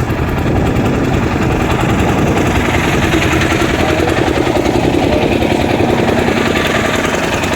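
Engine of a small motor boat running steadily, a fast even chugging, as the boat passes close by.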